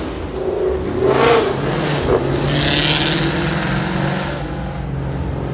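Car engine running and revving, with a swell about a second in and a rushing hiss a few seconds in.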